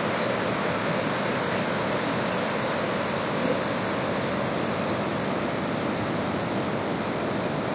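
Floodwater rushing in a fast torrent: a steady, loud roar of water that does not let up.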